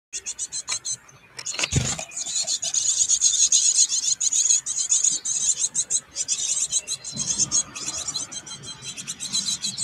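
Small birds giving a raspy, high-pitched chatter, fast and nearly continuous, with one knock about two seconds in.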